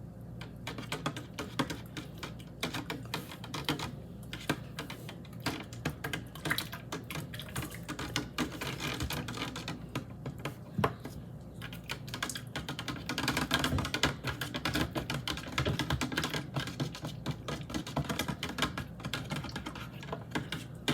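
A spoon stirring fast in a cup of hot chocolate, giving a dense run of quick, irregular clinks against the cup.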